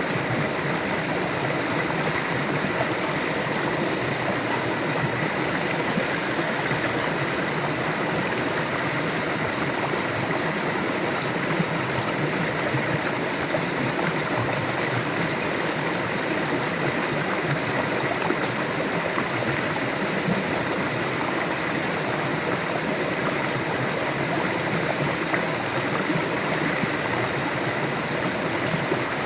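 River water flowing over rocks: a steady, even rush and babble that holds at the same level throughout.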